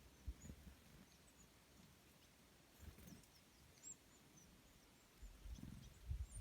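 Faint high chirps of small birds, short and scattered, over low thumps and rumbles that grow heavier near the end.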